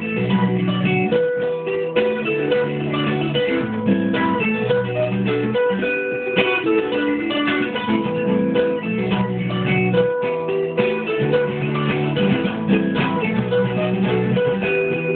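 Guitar playing: a continuous stream of plucked notes and chords at a steady level, sounding thin, with nothing above the upper midrange.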